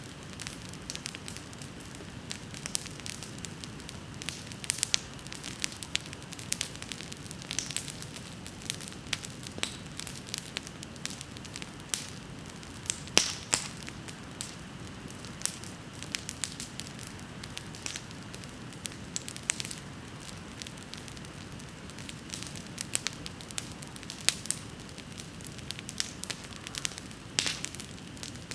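Wood bonfire burning, with a steady low rumble of flame and frequent irregular crackles and pops; the sharpest pop comes about halfway through.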